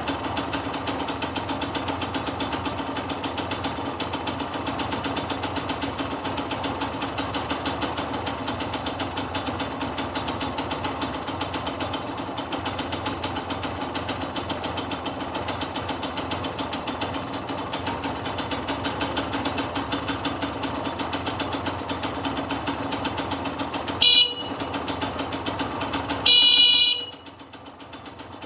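Kawasaki KDX125SR's two-stroke single-cylinder engine idling steadily with a fast, even firing beat. Near the end the bike's horn sounds twice, first a brief beep and then a longer one of about a second, after which the engine is quieter.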